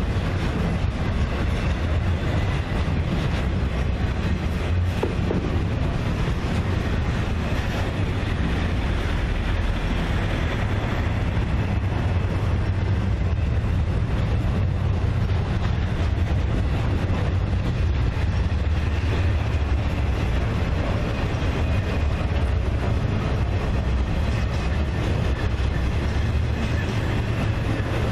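Intermodal freight train cars loaded with highway trailers rolling past, a steady rumble of steel wheels on the rails.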